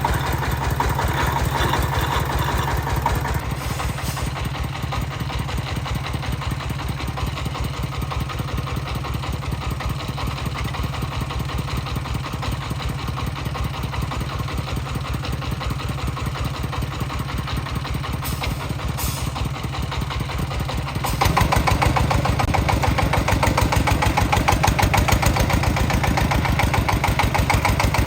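Tractor engine running steadily with a fast even firing beat, easing off slightly about three seconds in and running harder again about twenty-one seconds in.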